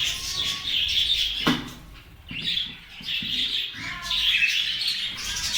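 A colony of budgerigars chattering and chirping without a break, easing off briefly a couple of seconds in.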